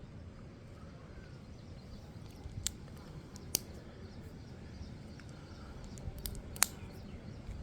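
Plastic Lego bricks clicking as they are handled and pressed together: a handful of sharp clicks spread out, the loudest a little after six and a half seconds in, over a low steady background hum.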